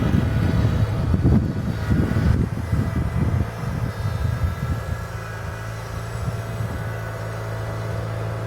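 John Deere 420 garden tractor engine running while it pushes snow with its hydraulic front plow. There is an uneven low rumble for the first few seconds, then a steadier hum from about five seconds in.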